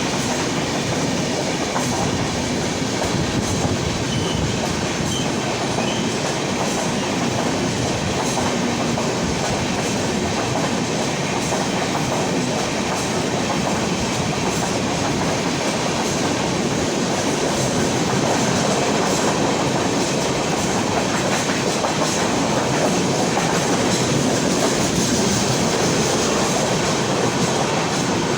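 Humsafar Express passenger train running through a station at speed without stopping. A loud, steady rush of passing coaches with wheels clacking over the rail joints.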